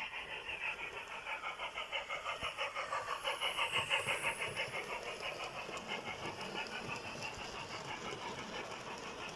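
Rhythmic steam chuffing from a sound-fitted model steam locomotive, about six even beats a second. The chuffing grows louder toward the middle and then fades.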